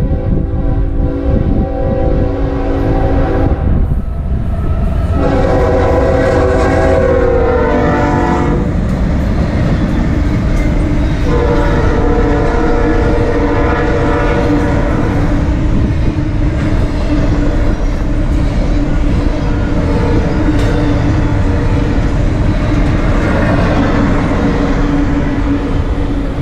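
BNSF freight locomotives (GE ES44C4 leading) blowing a multi-note air horn in several long blasts, the pitch dropping as they pass, then the constant rumble and clatter of a long intermodal train of container cars rolling by.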